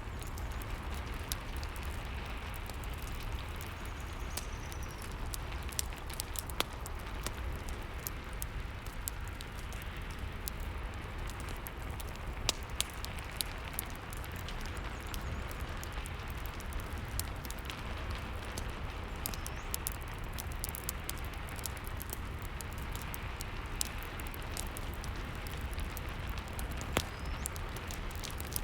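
Steady rain mixed with a crackling fireplace, its sharp pops and snaps scattered irregularly over the rain's even hiss.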